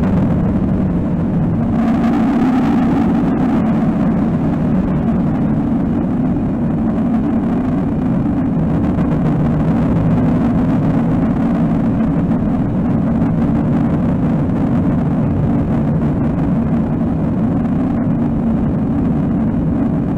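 Loud, steady low rumbling drone of an experimental noise composition, dense around a few sustained low tones, with a brighter hiss swelling briefly about two seconds in.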